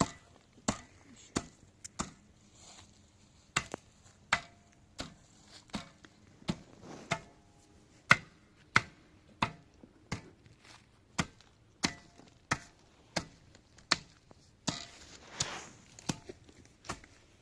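Repeated sharp blows of a hand tool, about one every two-thirds of a second, with two short pauses and a brief rustle near the end.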